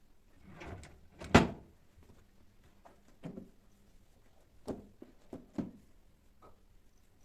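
A series of household knocks and clunks, things being set down or shut while tidying, with the loudest sharp knock about a second and a half in and a few softer ones later.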